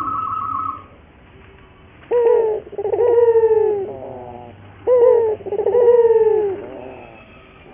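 Puter (Barbary dove) cooing: two coo phrases about three seconds apart, each a short note followed by a longer, gently falling note. A fainter, higher trill sounds in the first second.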